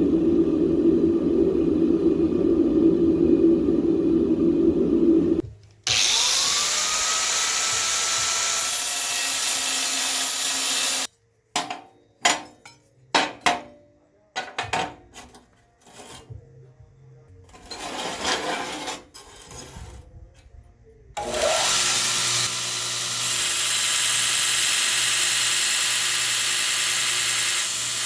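Electric power grinder working the steel of an old circular saw blade, a motor whine rising as it spins up about six seconds in. The work is cut into short bursts and gaps through the middle, then runs steadily again near the end. A steady lower hum fills the first five seconds.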